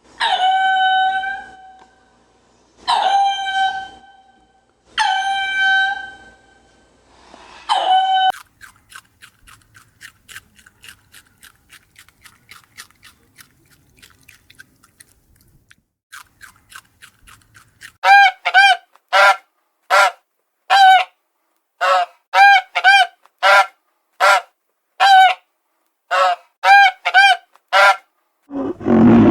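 Bird calls: four long calls about two seconds apart, then a faint, fast run of ticking calls, then from about eighteen seconds in a string of short loud calls, some in quick pairs.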